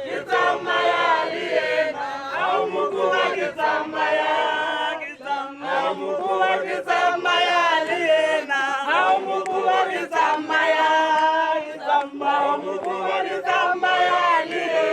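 A group of voices singing a chant together in phrases a few seconds long, each followed by a short break.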